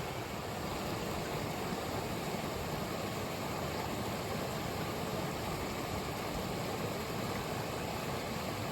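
Steady rushing of a creek in flood, swollen by heavy rain and melting snow.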